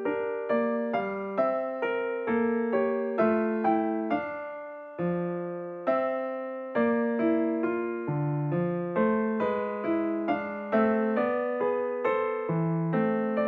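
Background music: a slow, gentle piano melody, notes struck about twice a second and left to decay, with one longer held note partway through.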